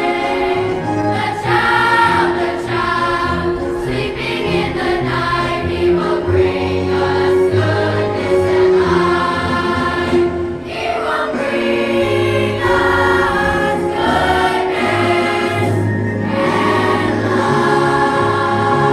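A school choir singing with accompaniment, sustained chords over a moving bass line.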